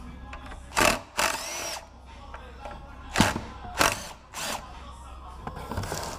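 Power drill run in several short bursts, its motor whine rising during the longest one about a second in.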